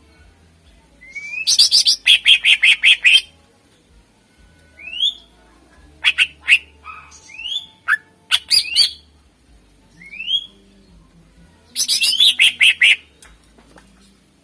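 Greater green leafbird (cucak ijo) singing loudly. Short rising whistles alternate with three bursts of rapid, sharp repeated notes, near the start, in the middle and near the end.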